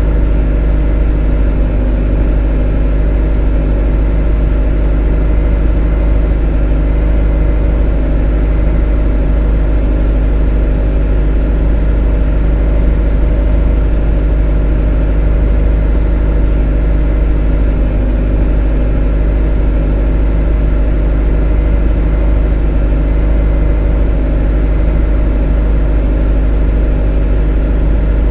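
A motor running at a constant speed, a steady unchanging drone with a deep hum and many even overtones.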